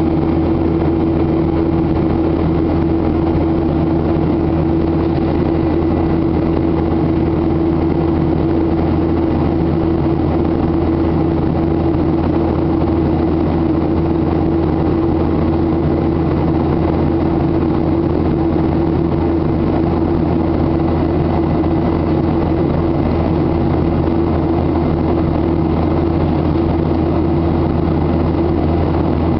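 Boeing 737-800's CFM56 jet engines running steadily, a constant drone with an unchanging hum over it.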